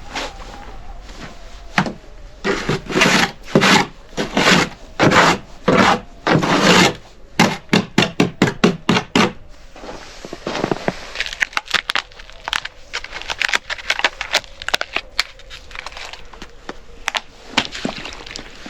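Wood being worked by hand: a run of rubbing, scraping strokes about half a second each, speeding into quicker short strokes, then giving way to lighter cracks and taps.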